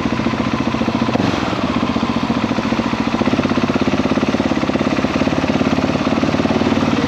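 KTM 690 SMC R's single-cylinder engine running steadily at low, even revs, its individual firing pulses coming through as a fast regular beat.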